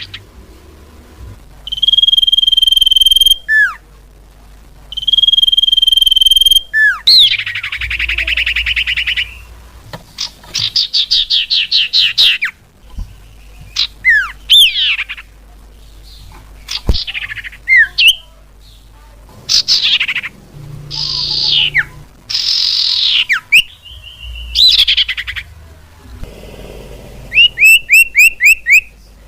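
Bird-lure recording of varied bird calls. Two long steady whistles are followed by fast trills and a string of quick falling notes, with a rapid run of sharp notes near the end.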